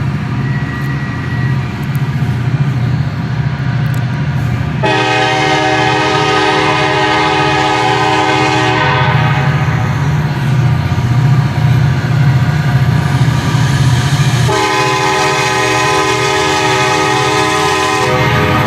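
Diesel locomotive air horn sounding two long blasts: the first about a quarter of the way in, fading over several seconds, and the second near the end. A steady low rumble runs under both blasts.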